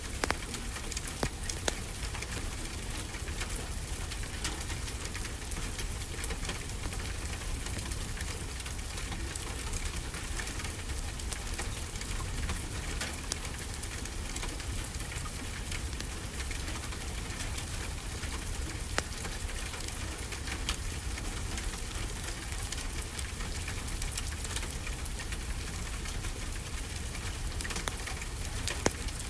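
Steady rainfall, an even hiss, with scattered sharp pops and crackles from a wood fire in a fireplace.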